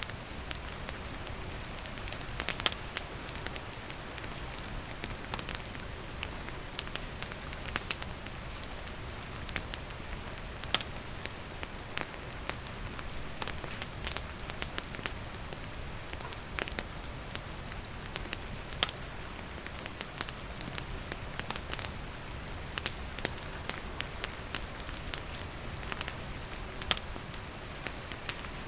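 Steady rain falling, mixed with a wood campfire crackling and popping in sharp, irregular snaps.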